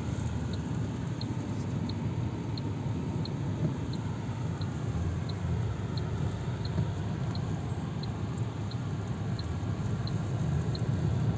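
Steady low rumble of strong sandstorm wind, with a faint short high tick repeating evenly about every two-thirds of a second.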